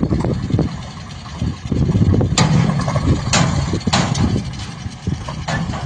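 Diesel engine of a JCB backhoe loader running while it loads mud, with four sharp knocks in the second half.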